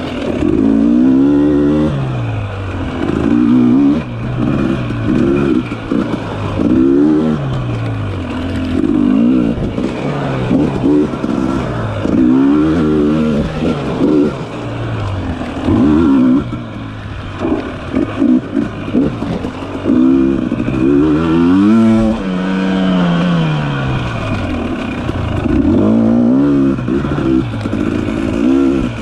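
Dirt bike engine revving up and dropping back again and again as the throttle is worked, its pitch climbing and falling every second or two, with one longer pull about three quarters of the way through.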